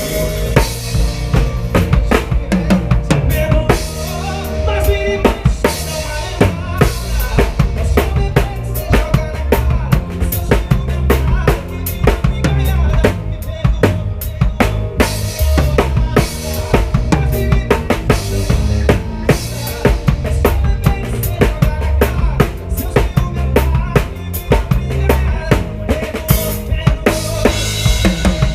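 Drum kit played in a live band without vocals: steady kick drum with snare and rimshot hits over a low bass line, the drums loudest.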